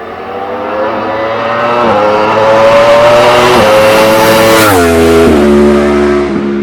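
2015 Yamaha R1's crossplane inline-four, fitted with an Akrapovic silencer and a decat link pipe, accelerating hard toward the microphone. Its note climbs, with brief dips at two upshifts, then drops suddenly in pitch as the bike passes, a little under five seconds in.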